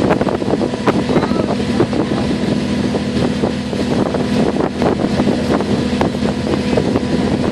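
Water taxi's engine running steadily under way, a constant low hum, with wind buffeting the microphone.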